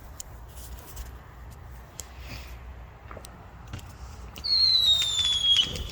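Whistling firework: one loud, high whistle starting about four and a half seconds in, gliding slowly down in pitch for over a second, over faint scattered pops of fireworks going off.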